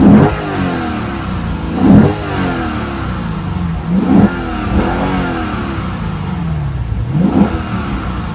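A 2015 Lexus RC F's naturally aspirated 5-litre V8 being revved while the car stands still: sharp throttle blips about every two seconds, the engine note rising quickly and then falling back to idle, with one smaller blip in between.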